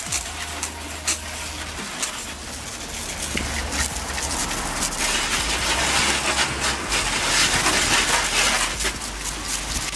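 Hose water spraying onto a car's bodywork as it is rinsed after washing: a steady hiss and spatter that grows louder about halfway through.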